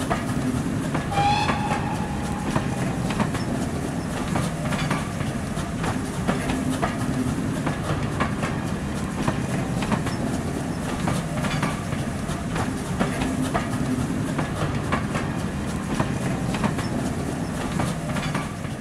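Railway train running, with a steady rumble and irregular clicks of the wheels over rail joints. A brief high-pitched squeal sounds about a second in.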